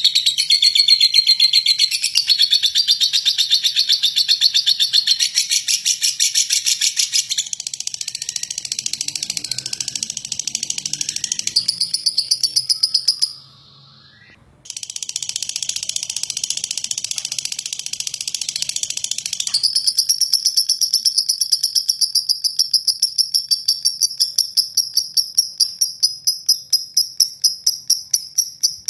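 Lovebird's long, rough chattering trill (ngekek): a fast, high-pitched run of rattling notes. It breaks off for about a second just past the middle, resumes, and later turns into a thinner, higher trill whose pulses slow toward the end.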